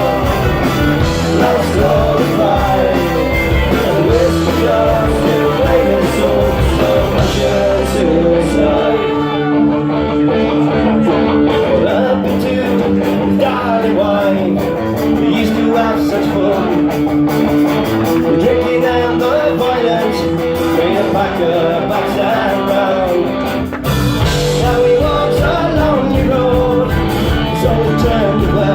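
Rock band playing an instrumental break led by guitar lines. The drums and bass drop out about nine seconds in, leaving the melodic lines, and come back in near the end.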